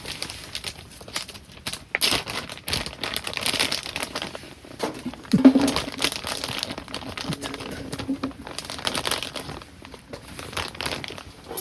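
Plastic packaging crinkling and rustling as it is handled, with scattered small clicks and knocks.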